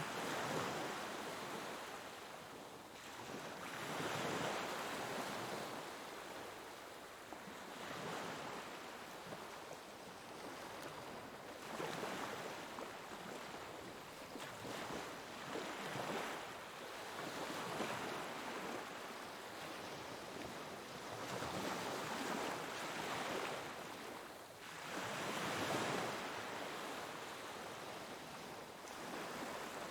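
Ocean waves breaking and washing on a shore, each surge of surf swelling and fading every four seconds or so.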